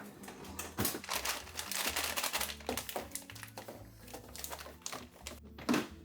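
Background music with a steady low bass line, over close crinkling and rustling with a run of light clicks and knocks from something being handled, the loudest knock near the end.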